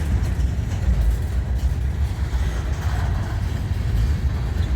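Freight train cars rolling past on the track: a steady low rumble of wheels on rail.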